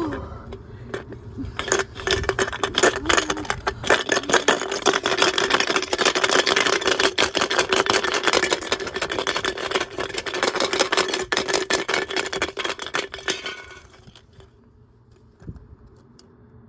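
Washing machine drum spinning with a 6-litre plastic water bottle inside, which clatters and bangs against the drum in a fast, continuous rattle over a steady motor hum. The rattle dies away about 14 seconds in, leaving only a faint low sound.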